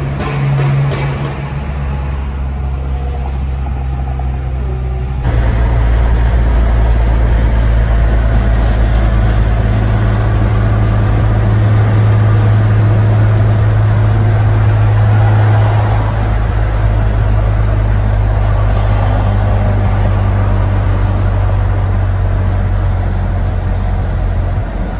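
Infiniti G35's 3.5-litre V6 and exhaust droning steadily at cruise, heard from inside the cabin over road noise. The sound jumps louder and steadier about five seconds in.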